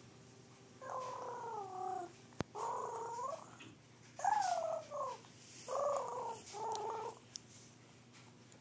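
A cat making five short, high, wavering mewing calls in quick succession, soft little chirping mews.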